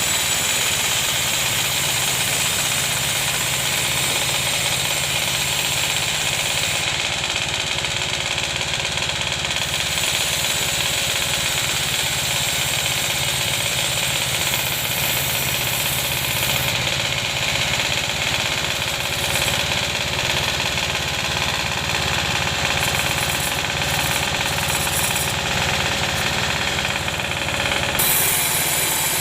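Sawmill bandsaw machine running steadily under its engine: a constant hum with a hiss of higher noise over it.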